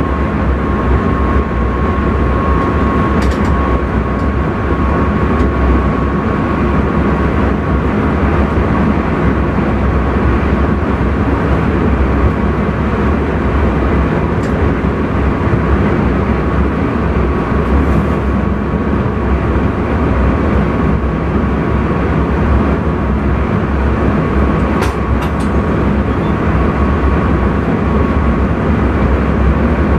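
Intercity train running at speed, heard from the driver's cab: a steady low rumble of wheels and running gear with a faint steady high tone and a few brief faint clicks.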